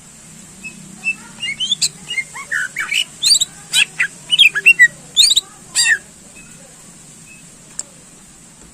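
Cucak ijo (greater green leafbird) singing a fast burst of varied sliding whistles and sharp calls for about five seconds, then stopping, with one faint note near the end.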